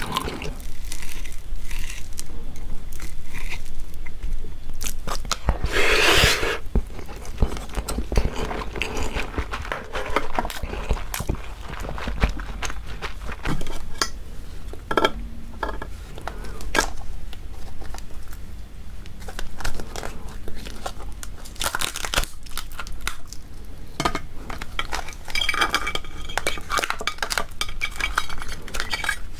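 Close-miked eating of raw marinated crab (gejang) with rice: chewing and crunching, with many sharp clicks of utensils on dishes and a louder burst about six seconds in.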